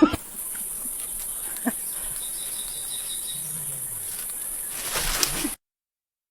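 A steady high-pitched hiss with a few faint knocks under it, cutting off suddenly about five and a half seconds in.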